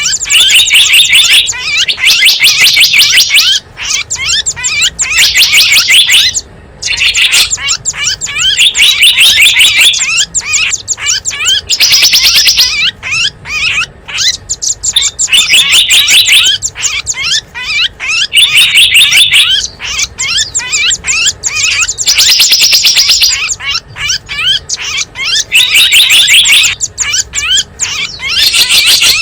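Recorded small-bird calls played as a lure for wild small birds: loud, rapid high-pitched chirping trills in repeating bursts about every three seconds, with quicker scattered chirps between them.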